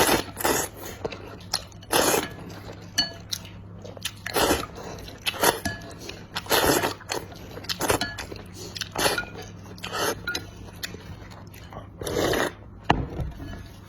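Close-miked chewing and crunching of seafood, a string of loud wet bites and chews about one every half second to second, over a steady low hum.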